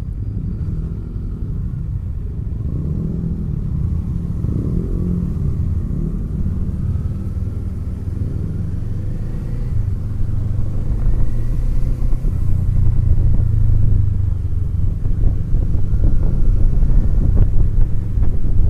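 Kawasaki Eliminator SE's parallel-twin engine running on the move, a steady low rumble that grows louder about halfway through.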